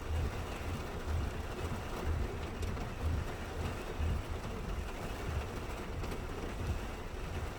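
Steady rain falling, an even hiss with an uneven low rumble underneath and a few faint taps.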